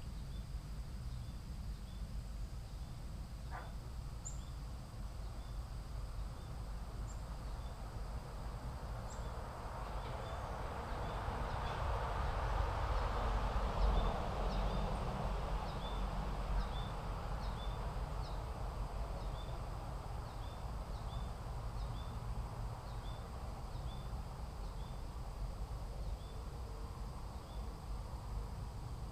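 Outdoor ambience: a steady low rumble under a thin, steady high insect hum, with a short high chirp repeating about once a second. Partway through, a broad rushing noise swells up and fades away.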